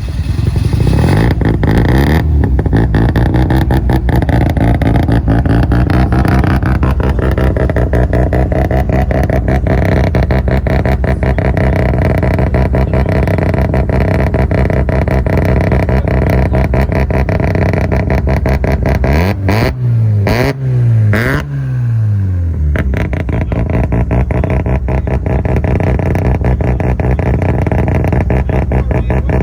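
Car engine with a nasty cam, running loud under hard acceleration, its pitch climbing over the first couple of seconds and then holding. About two-thirds through the revs rise and fall three times in quick succession, then settle back to a steady pull.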